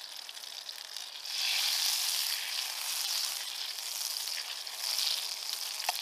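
Butter sizzling in a small coated metal pan over a campfire, a steady high hiss that grows louder about a second and a half in and swells again near the end.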